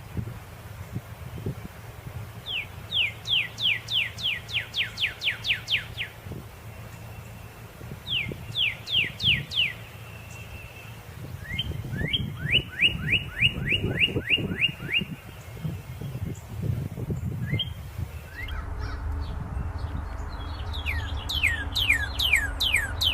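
Northern cardinal singing: phrases of rapid repeated slurred whistles, mostly falling in pitch, with one run of rising notes, and pauses between the phrases. A steady low hum runs underneath and gets louder near the end.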